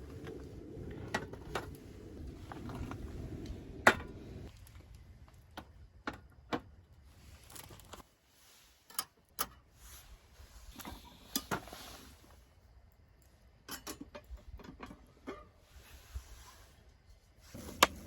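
Scattered light clicks, clinks and knocks of small hard objects being handled, a few sharper than the rest, over faint outdoor background.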